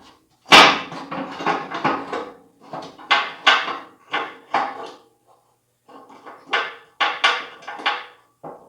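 Irregular metal clanks and rattles of steel parts being handled, with the loudest strike about half a second in and a brief lull in the middle: the 1972 Gilson snowblower attachment being worked onto the tractor's mounting bars.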